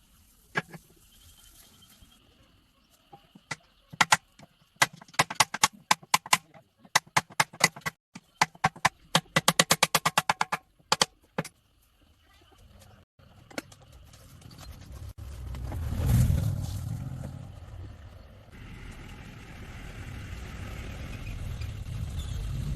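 A run of sharp knocks or clicks, coming fast and evenly for a stretch, followed by a motor vehicle passing and an engine running.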